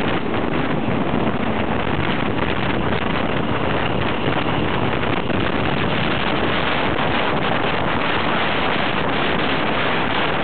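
Steady rush of wind buffeting the microphone at an open window of a moving train, mixed with the running noise of a train and the Alsthom diesel-electric locomotive passing close alongside.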